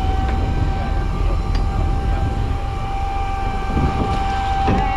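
Fishing boat's engine running steadily: a low rumble with a steady whine held above it.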